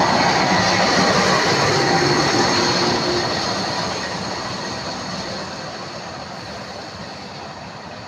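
A train passing on the rails, its wheels running with a thin high squeal. It is loudest for the first three seconds, then fades steadily as the train moves away.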